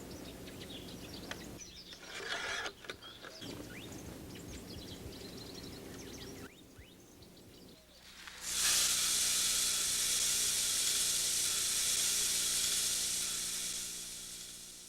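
Outdoor ambience with scattered high bird chirps and a brief louder rush about two seconds in, then a steady loud hiss for about six seconds that fades near the end.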